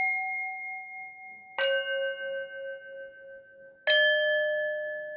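Struck metal bell tones, each ringing out slowly. One is already sounding as the sound begins, and two more strikes follow about one and a half and four seconds in, each at a different pitch.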